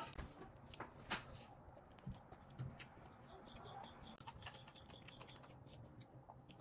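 Faint eating sounds: a man chewing steak, with scattered small clicks and smacks from his mouth.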